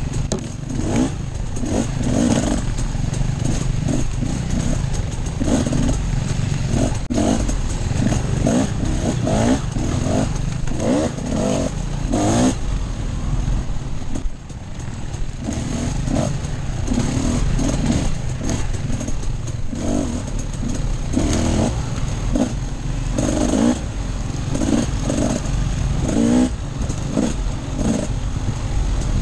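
Off-road motorcycle engine running under constantly changing throttle, revving up and backing off again and again, with a brief throttle-off about halfway through.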